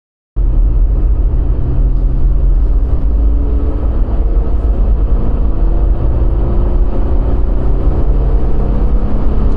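Jeep Gladiator driving, a loud low engine and road rumble that cuts in abruptly just after the start, its engine pitch rising slowly as it pulls.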